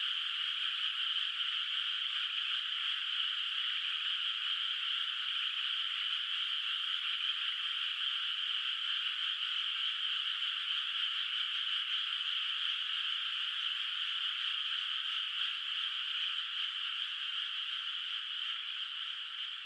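A dense chorus of many frogs calling together from a flooded rice paddy at night, a steady blended trill with no single call standing out. It begins to fade out near the end.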